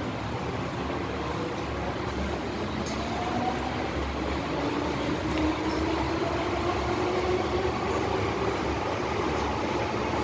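Running noise of an MTR M-Train electric multiple unit heard from inside the car, a steady rumble. From about four seconds in, a faint motor whine rises slowly in pitch and the noise grows slightly louder.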